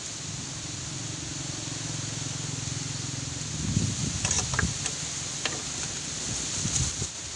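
Heavy rain and wind hissing steadily. A low droning hum runs through the first half, and a few sharp knocks and clicks come in the second half.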